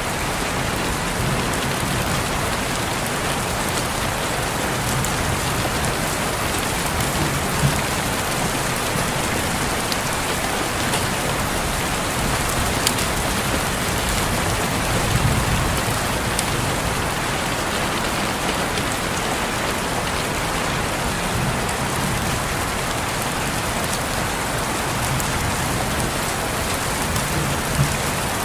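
Steady rain falling on a window and surroundings, an even hiss with now and then a sharper drop tap, and a faint low rumble a couple of times.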